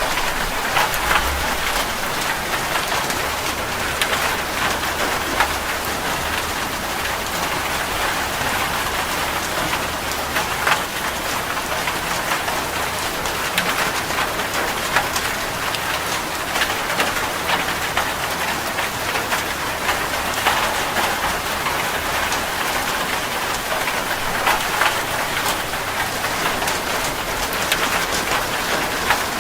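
Steady rain falling on a surface, with individual drops striking close by every so often.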